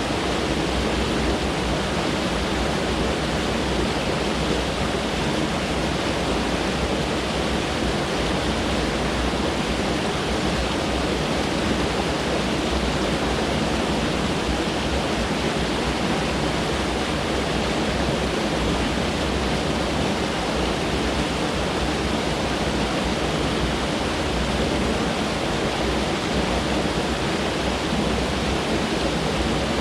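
Mountain stream rushing over rocks: a steady, dense rush of water with no change in level.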